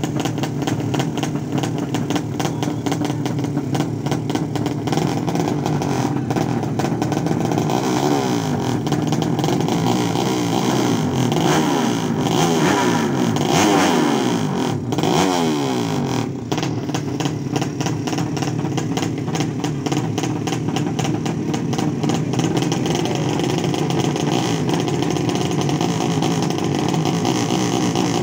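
Racing motorcycle engines running loud and revving, with pitch sweeping up and down through the middle.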